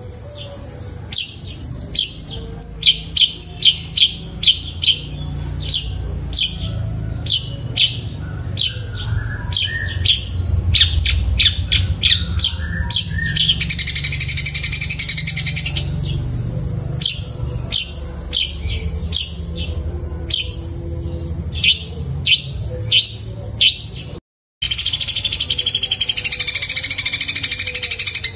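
Long-tailed shrike (cendet) singing a rapid series of short, sharp high chirps, mimicking the calls of fighting Eurasian tree sparrows, with two longer stretches of continuous chattering. The sound cuts out for a moment about three-quarters of the way through.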